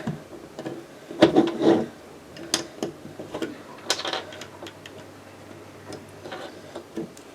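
Plastic Lego bricks clicking as they are pressed together and handled: a scatter of short, sharp clicks, several bunched together about a second in and single ones after.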